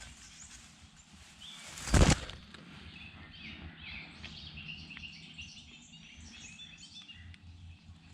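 Songbirds chirping and calling in spring woodland, many short high notes overlapping. About two seconds in, one short loud rushing burst, like a brush or knock against the microphone, stands out above them.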